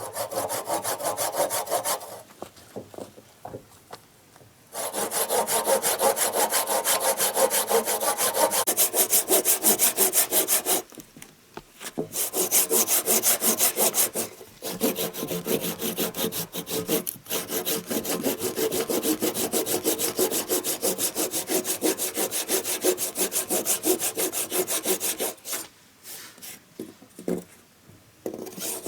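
Hand saw cutting through wood with quick, even back-and-forth strokes, in several bouts broken by short pauses.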